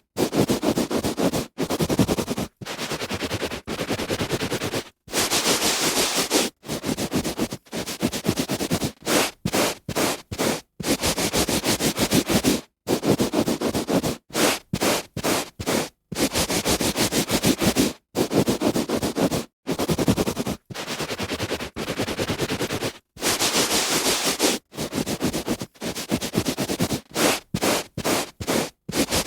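A hand rubbing back and forth on a carpet: a run of rough, rustling strokes of uneven length, from a fraction of a second to about two seconds, each broken off by a brief silence.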